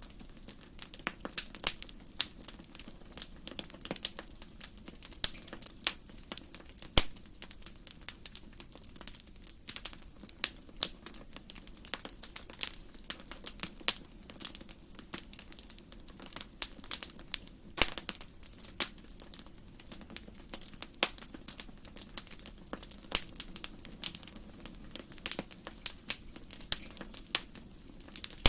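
Wood fire crackling in a fireplace: irregular sharp pops and snaps, several a second, over a steady low rush.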